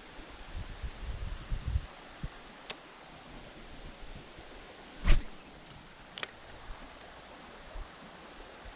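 Insects keeping up a steady, high-pitched drone, with a few sharp clicks and one louder knock about five seconds in.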